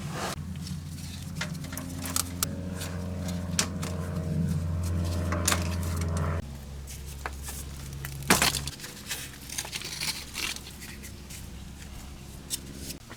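Hand tools and loose metal parts clicking and clinking during underbody disassembly, over a steady low hum that shifts abruptly about halfway through and again a couple of seconds later.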